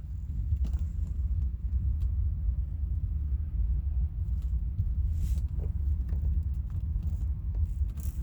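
Low, steady rumble of interstate highway traffic passing.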